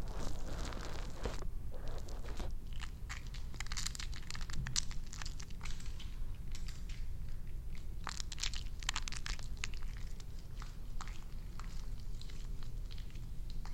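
Close-miked crisp crackling and clicking, irregular and unbroken, with denser bursts about four seconds in and again around eight seconds in.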